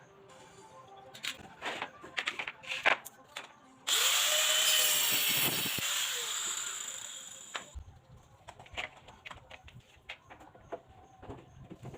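A handheld power tool runs for about four seconds and stops suddenly, between scattered knocks of wood and tools.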